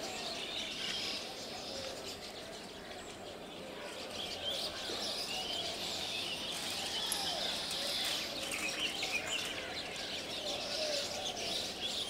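Birds chirping repeatedly over steady outdoor background noise, the chirping growing busier about four seconds in.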